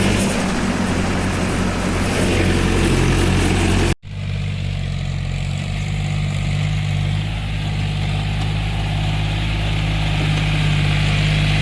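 Heavy diesel engine running steadily, with a brief sudden dropout about four seconds in, after which it carries on.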